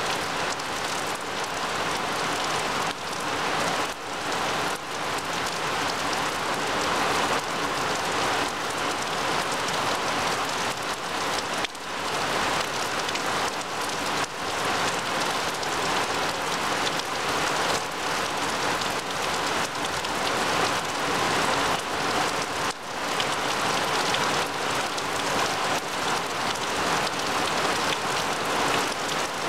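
Steady rain falling on a grass lawn and leafy trees: an even hiss with faint scattered drop sounds.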